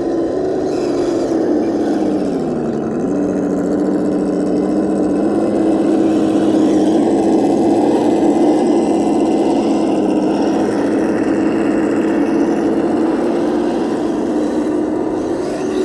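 Kyosho Blizzard radio-controlled tracked vehicle running: a steady pitched drive whine that dips in pitch about two to three seconds in as it slows, then picks back up and holds.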